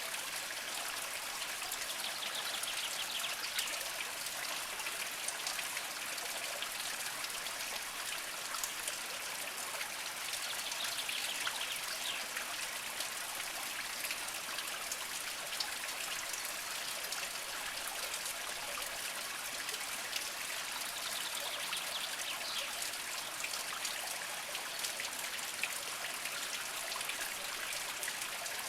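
Small mountain spring trickling steadily over mossy rocks, an even water sound flecked with many fine drip-like ticks.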